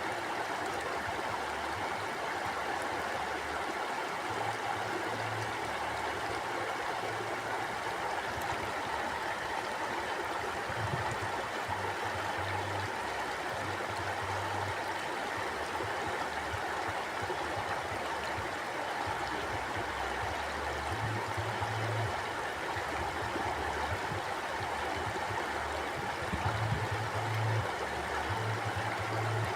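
Mountain stream flowing over rocks: a steady rushing and gurgling of water, with a low rumble that comes and goes underneath.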